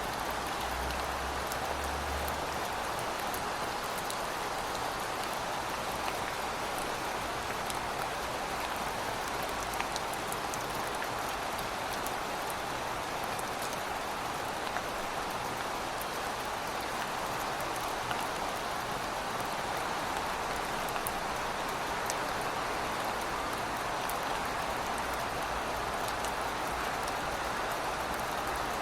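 Heavy rain falling steadily: a dense, even hiss with scattered sharp ticks of individual drops striking surfaces.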